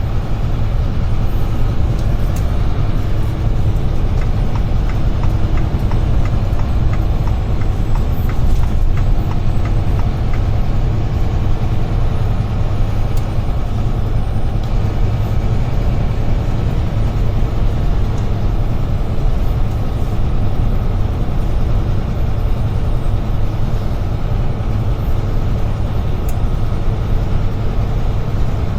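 Steady low rumble of a UD Trucks Quon heavy truck's diesel engine and road noise, heard from inside the cab while driving.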